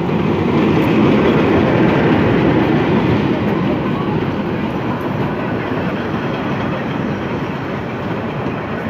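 A diesel locomotive and its passenger coaches pass close by with a loud, dense rumble of steel wheels on the rails. It is loudest in the first few seconds as the locomotive goes by, then eases a little as the coaches roll past.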